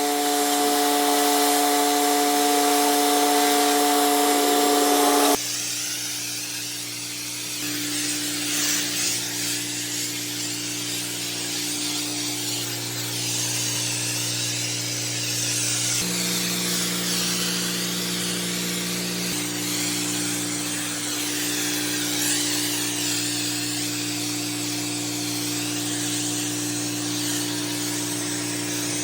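Pressure washer running steadily, its motor humming under the hiss of high-pressure water spray. About five seconds in the sound changes suddenly and drops in level, then carries on steadily.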